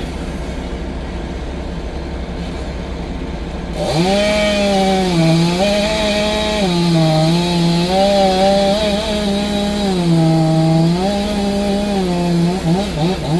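Chainsaw idling low, then opened up to full throttle about four seconds in. The high engine note sags in pitch several times and recovers, the sign of the chain bogging as it bites into wood and then freeing up.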